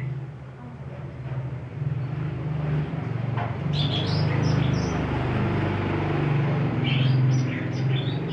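Cucak ijo (green leafbird) giving short, sharp chirping calls in quick runs, about three and a half seconds in and again near the end, a grumbling chatter. A steady low hum runs underneath.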